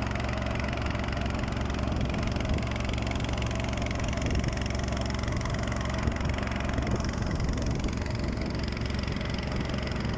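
An engine idling steadily, with an even hum.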